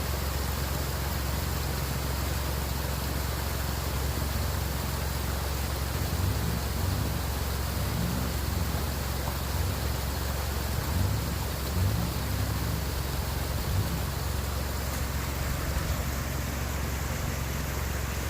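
Vehicle driving along a rough forest road: a steady rush of noise with a low engine note that rises and falls in pitch now and then.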